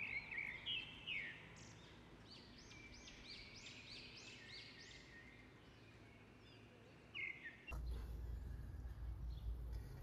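Songbirds calling outdoors: sharp chirps, then a quick run of repeated arched whistled notes. About three-quarters through, the birdsong gives way to a steady low rumbling noise.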